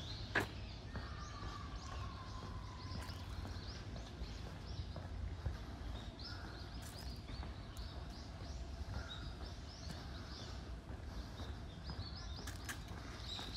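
Small birds chirping again and again in short high calls over a low, steady rumble. There is a sharp click about half a second in, and a long, thin whistle that falls slowly in pitch during the first few seconds.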